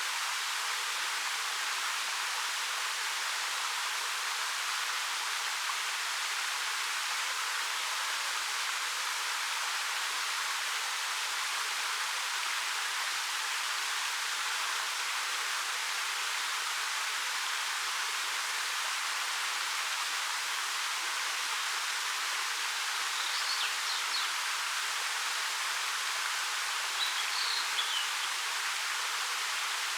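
Steady rush of a 13 m waterfall spilling over rock, an even hiss with little low rumble. Two brief high chirps sound over it, about three-quarters of the way through and again near the end.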